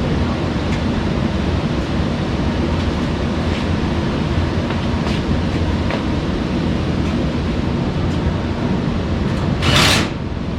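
A steady low machinery hum and rumble, with a short, loud hiss just before the end.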